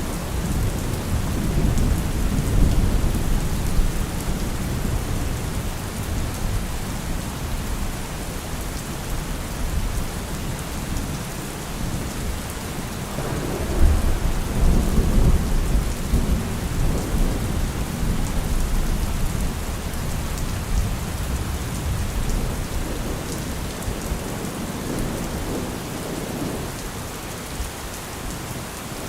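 Steady heavy rain with thunder rumbling low underneath; a louder roll of thunder swells about halfway through and fades over several seconds.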